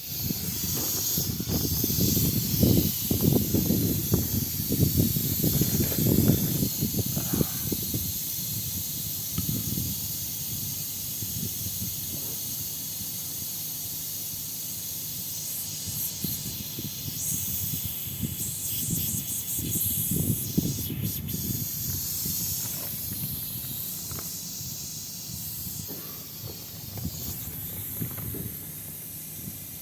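Steady high hiss of R-410A refrigerant gas flowing through the charging hose and valve into a split air conditioner. An uneven low rumble comes and goes underneath it, loudest in the first several seconds and again about twenty seconds in.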